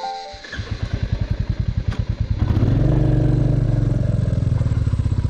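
Royal Enfield motorcycle engine idling with evenly spaced firing pulses, then opened up to a louder, steadier run about two and a half seconds in.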